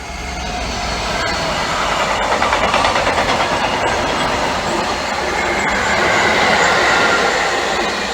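A train passing at line speed, its wheels running over the rails with a rapid rhythmic clatter, building up loud over the first couple of seconds as it arrives and then staying loud.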